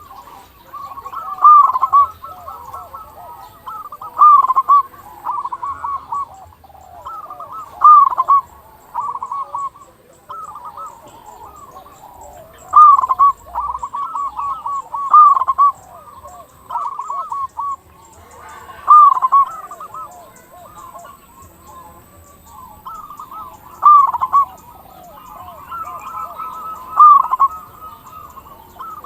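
Zebra doves (perkutut) cooing: overlapping, repeated phrases of short rolling notes, with a loud phrase every two to four seconds.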